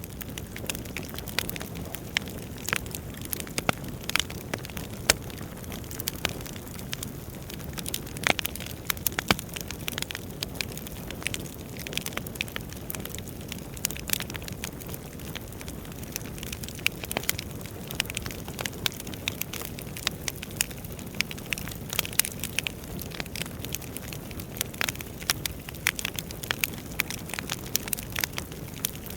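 Wood fire crackling in a fireplace: frequent irregular sharp pops and snaps over a low steady rumble of the burning logs.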